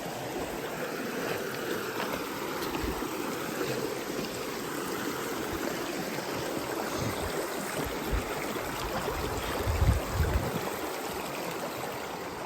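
Creek water flowing over rocks, a steady rushing. A few dull low thumps about ten seconds in.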